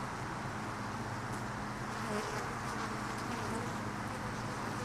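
Honey bees buzzing steadily, many at once, around an open hive.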